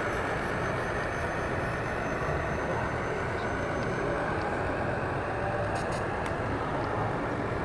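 Steady ambience of a busy exhibition hall: an even wash of indistinct crowd noise, with a few faint light ticks about six seconds in.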